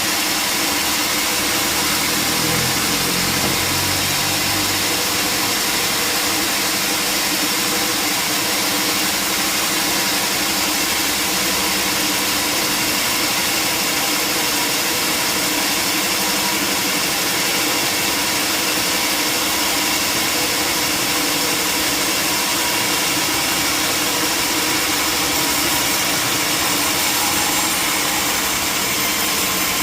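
Sawmill machinery running steadily, an even mechanical drone with hiss that does not change.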